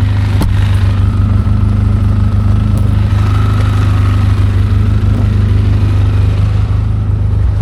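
ATV engine running steadily at a constant speed, a loud even drone with no revving. A short click sounds about half a second in.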